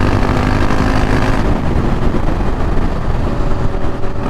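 KTM 690 Duke R's single-cylinder engine running under way, its tone clearest in the first second and a half, with heavy wind rush on the helmet microphone throughout.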